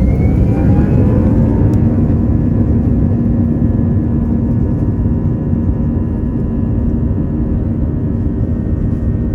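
Airbus A321-211's CFM56 turbofan engines, heard from inside the cabin, spooling up for takeoff. A whine rises over the first second or two and then holds steady over a heavy, continuous rumble.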